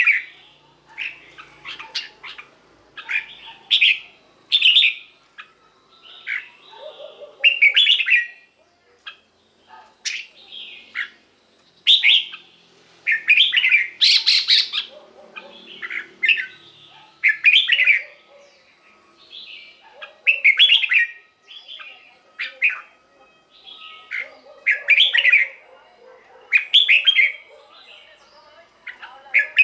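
Red-whiskered bulbul singing: short, bright whistled phrases repeated every second or two.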